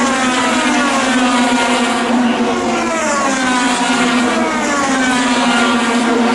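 IndyCar race cars' twin-turbocharged V6 engines going past at speed, one after another, the engine pitch sliding down as each car passes, over a steady engine drone.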